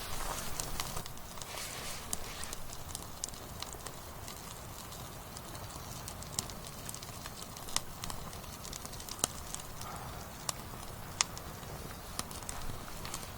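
Wood campfire burning with a steady hiss and irregular sharp crackles and pops from the split firewood.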